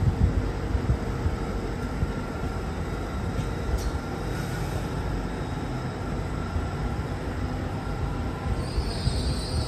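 A train moving with a steady low rumble; near the end a high-pitched wheel squeal sets in and keeps going.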